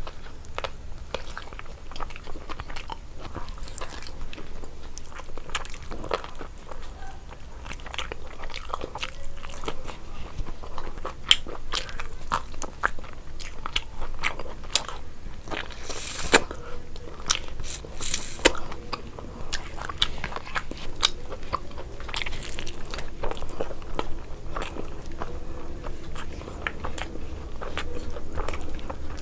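Close-miked chewing and eating of biryani: a steady run of wet mouth clicks and chewing, with a few louder crunches near the middle.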